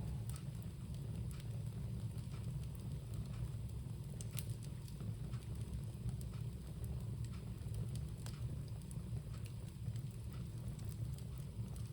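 Bonfire burning: scattered sharp crackles and pops over a steady low rumble.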